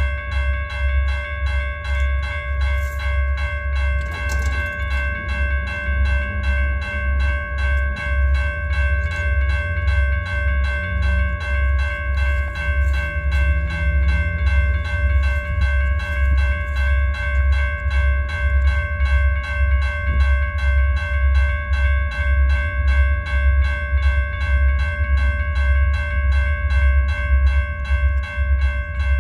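A train passing, with a low rhythmic rumble, under a steady high ringing tone with overtones that is held throughout.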